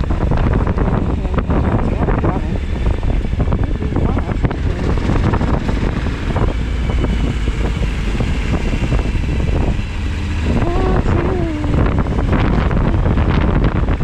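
Wind buffeting the camera microphone of a moving motorcycle, over the steady low running of a Suzuki V-Strom 1000XT's V-twin engine.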